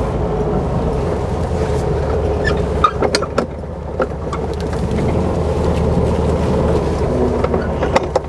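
Air-cooled flat-four engine of a 1966 Volkswagen Karmann Ghia 1300 running as the car drives at low speed. The note is steady and low, with a few sharp clicks over it.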